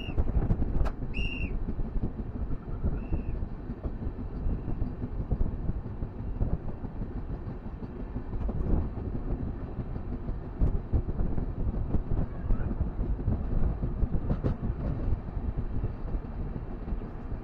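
Passenger train running on the track: a steady low rumble with scattered sharp clicks. Three or four short, high calls sound in the first few seconds.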